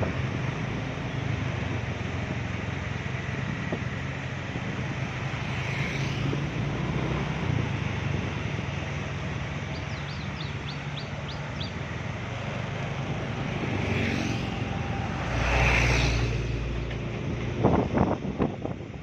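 A heavy truck laden with sugarcane, its engine running with a steady low drone. About three-quarters of the way in there is a louder swell, and near the end several sharp knocks.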